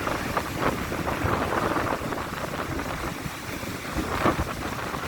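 Stormy sea surf: waves breaking one after another, with strong wind rumbling on the microphone.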